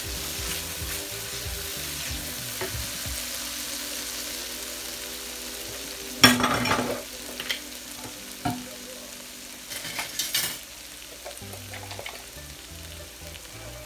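Spiced onion masala paste sizzling in oil in a nonstick wok while it is stirred with a silicone spatula, being sautéed down until the oil separates. There is a brief louder clatter about six seconds in and a few lighter taps near ten seconds.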